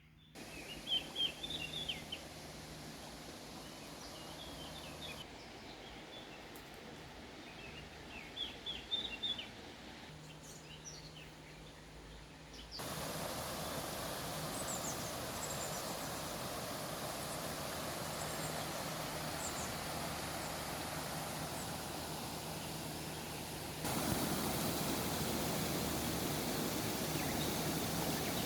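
Steady rush of falling water with birds chirping in short bursts during the first half. The water noise jumps suddenly louder about halfway through and again near the end.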